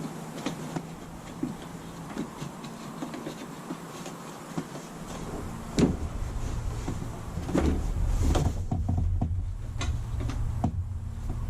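Scattered clicks, knocks and rustles of electrical wires and plastic fan-housing parts being handled and pushed into place. A steady low rumble sets in about halfway through, with a few louder knocks.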